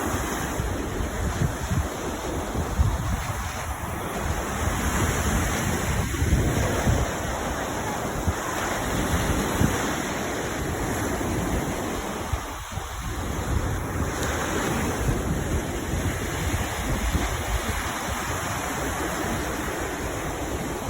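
Sea waves washing in steadily, with wind buffeting the microphone in a low rumble.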